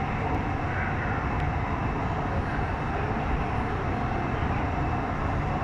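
Nanjing Metro Line S9 train running, a steady rumble heard from inside the carriage.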